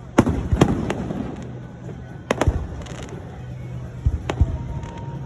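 Aerial fireworks bursting: about eight sharp booms with echoing tails, three in quick succession in the first second, then pairs of bursts a couple of seconds apart.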